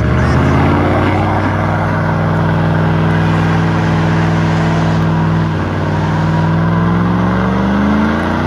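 Loud car engine, suddenly brought up to high revs and held there steadily, then rising higher near the end.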